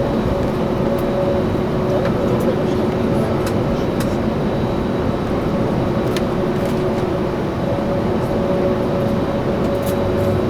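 Steady jet engine noise from an airliner on the ground: a low rumble with two steady hums, holding level without rising or falling.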